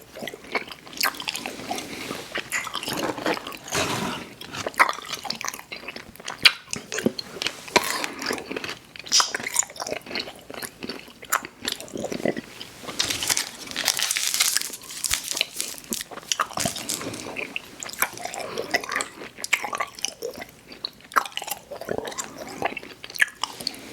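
Close-miked eating of sour gummy worms cereal: chewing and biting with crunching and many small irregular mouth clicks, louder for a couple of seconds about halfway through.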